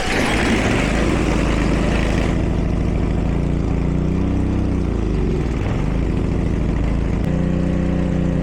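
Small engine running steadily after its carburetor was cleaned and the lost float needle spring replaced. Its speed wavers a little midway, then settles about seven seconds in.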